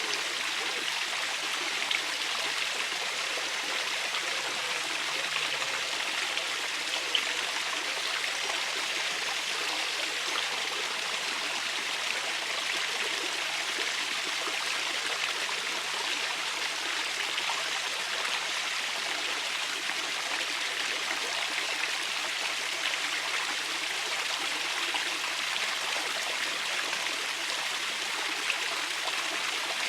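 Small river running over stones: a steady rush and babble of shallow moving water, with a few faint clicks.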